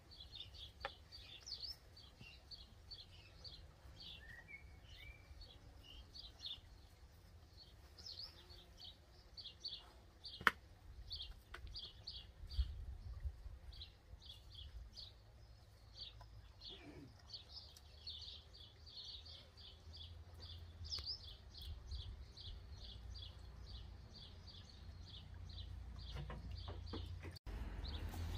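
Small birds chirping in quick runs of short, high notes, with a few sharp clicks, the loudest about ten seconds in, over a faint low rumble.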